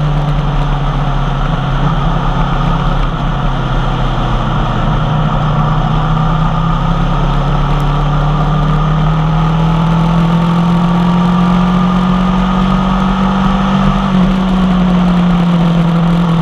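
2016 Aprilia Tuono V4 1100 Factory's V4 engine, breathing through an unbaffled M4 carbon exhaust, running under way at a steady pull. The engine note climbs slowly, then eases slightly about 14 seconds in.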